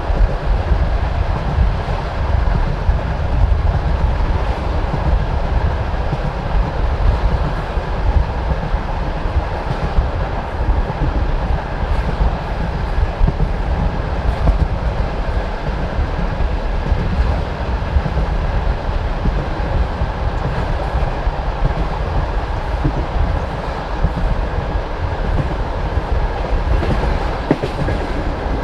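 Passenger railway carriage running at speed, heard from its window: a steady rumble of wheels on the track with the clatter of wheels over rail joints.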